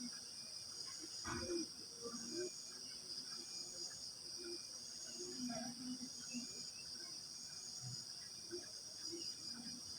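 Crickets and other insects trilling steadily in a high-pitched chorus. Short low calls are scattered through it.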